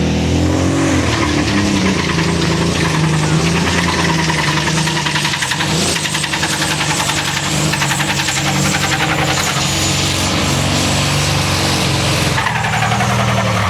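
Competition pulling tractor's engine under full load, dragging the weight sled down the track. It is loud, runs rough, and is coughing and spluttering: it is not running correctly.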